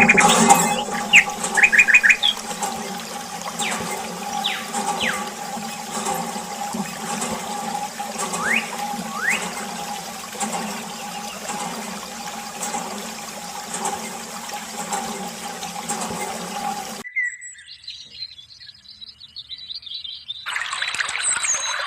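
Steady hum with running water, typical of a small electric water pump running, with birds chirping now and then. It cuts off suddenly about 17 seconds in, and a splashy water noise follows near the end.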